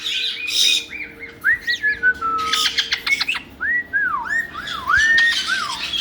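Caiques calling: a run of clear whistles, each swooping up and then down, mixed with a few harsh squawks near the start and about three seconds in.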